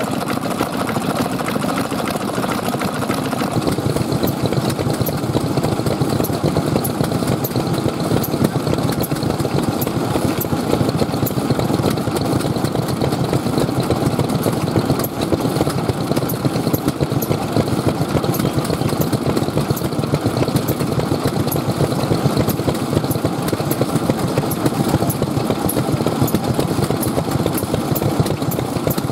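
Old stationary petroleum engines (hatsudoki) running steadily, a continuous rapid mechanical chugging.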